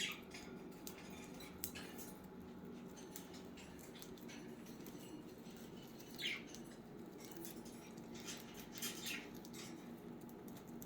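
Pet budgies making faint short chirps and small clicking, scratching sounds, a few sharp ones about six, eight and nine seconds in, over a steady low hum.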